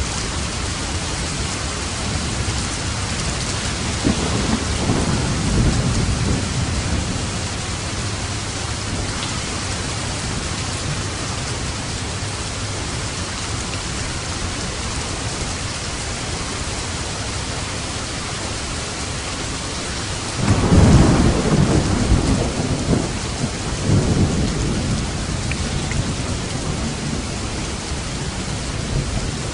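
Steady heavy rain with thunder rumbling twice, a smaller roll about four seconds in and a louder, longer one about twenty seconds in.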